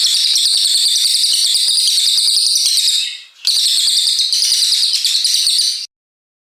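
Brown cililin songbird singing a long, rapid, high-pitched trill, a fast run of notes in two long bursts with a short break about three seconds in, cutting off abruptly near the end.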